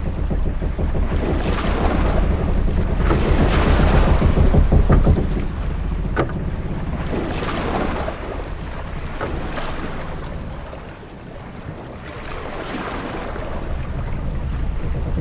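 Ship at sea: waves washing against the hull and wind over a deep low rumble, swelling loudest about a third of the way in, easing off past the middle and building again near the end, with a few short sharp sounds in between.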